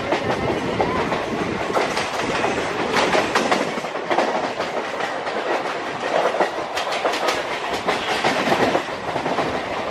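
Local electric train running along the track, heard from inside the coach: a steady rumble with the wheels clicking and clattering over the rails.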